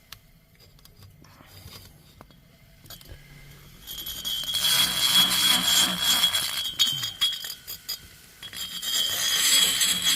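High-speed rotary tool grinding and smoothing the aluminium exhaust port of a Stihl MS460 chainsaw cylinder. Faint handling clicks come first; about four seconds in the tool starts, running with a steady high whine over the grinding noise. It stops briefly about eight seconds in and starts again.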